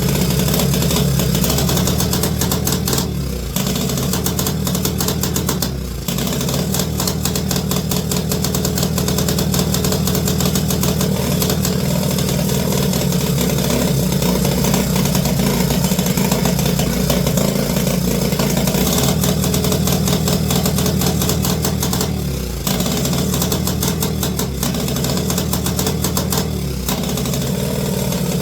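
Small pit bike engine running steadily at a fast idle, dipping briefly four times as it stumbles. The owner suspects a carburettor problem.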